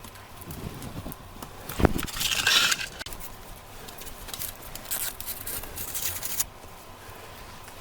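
Small scrapes and a sharp click from repair tools working on the opened iPad Pro's internal flex connectors, with a longer scrape about two seconds in and more scraping near the middle.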